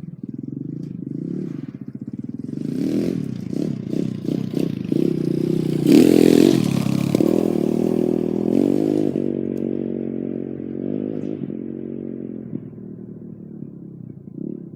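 2013 MXR 230 KZR's single-cylinder four-stroke 230cc dirt bike engine revving up and down several times, loudest about six seconds in, then running steadier and fading away.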